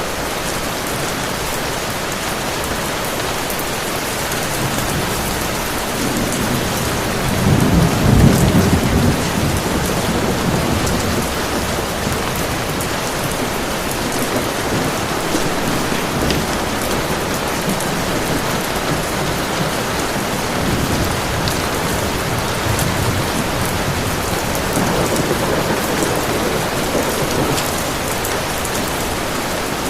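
Steady heavy rain hissing, with a low rumble of distant thunder swelling up about eight seconds in and fading over a few seconds, and a softer rumble later on.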